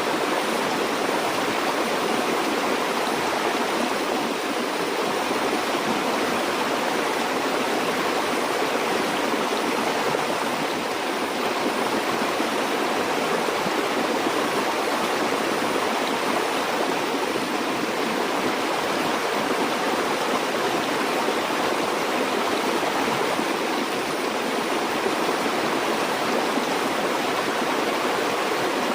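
Flowing stream water, a steady rushing and burbling over rocks with no breaks.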